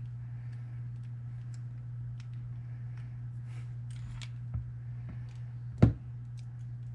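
Small metal clicks and taps of padlock parts being handled and fitted together, with a louder sharp knock near the end.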